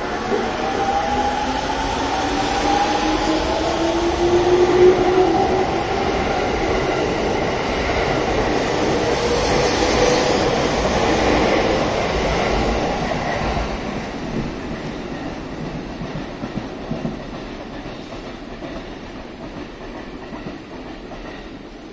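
JR East E231 series 0 electric commuter train pulling out and accelerating: its inverter and traction motors whine in rising tones over the wheel noise on the rails. The sound peaks as the cars pass, then fades away from about 14 seconds in as the train leaves.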